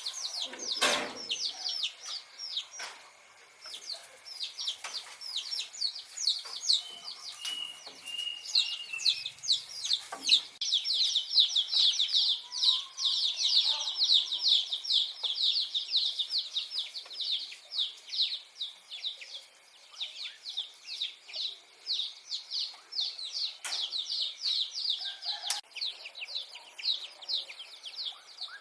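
Birds chirping rapidly: a dense stream of short, high, falling notes that grows busiest in the middle. A thump sounds about a second in, and a few sharp knocks come later.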